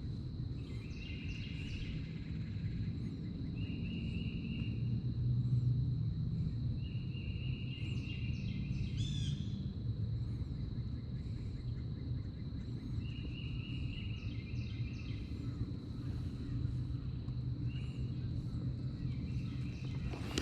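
Outdoor lake ambience: a low steady rumble under birds calling, with a buzzy call about a second long repeated every few seconds and short high chirps between.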